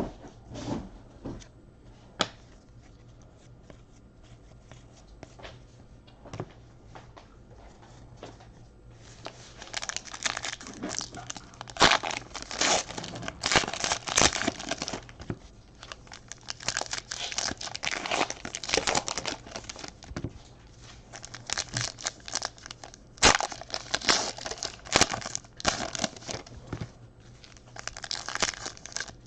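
Foil trading-card pack wrappers being torn open and crinkled. After a few faint clicks, the crackling comes on thick about nine seconds in and goes on in irregular spurts.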